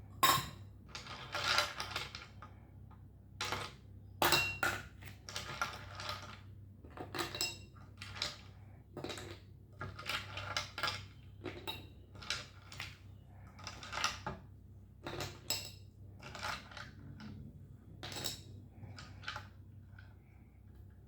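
Ice cubes clinking and rattling as they are put onto a plate, one after another. The clinks are irregular and grow sparser near the end.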